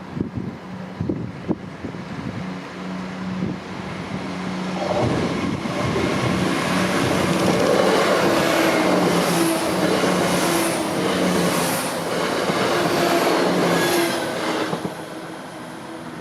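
Two coupled Class 168 diesel multiple units passing at speed: a steady diesel engine note on approach swells into loud engine and wheel noise with regular clacks of wheels over rail joints, then fades away near the end. Very noisy.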